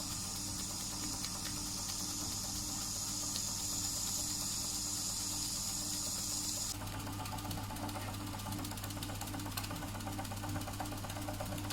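Doll & Co 339/2 stationary model steam engine running steadily with a fast mechanical clatter and a constant hum. A high steady hiss over it cuts off suddenly about seven seconds in, leaving the rapid ticking of the engine clearer.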